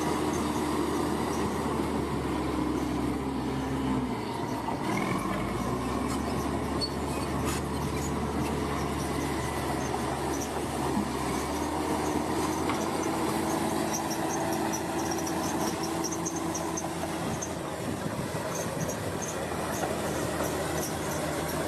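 Heavy construction machinery running continuously, a deep engine sound with a metallic squeal over it that wavers in pitch.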